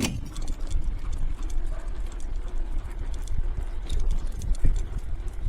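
Wheeled street sled running over pavement behind two pulling dogs: a steady low rumble with a fast patter of light clicks throughout.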